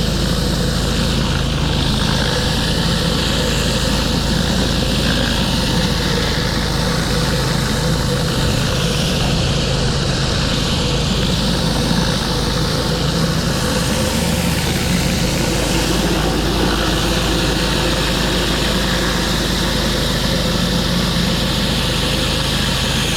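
Pressure washer running steadily, its engine humming under the loud hiss of high-pressure water spraying onto concrete.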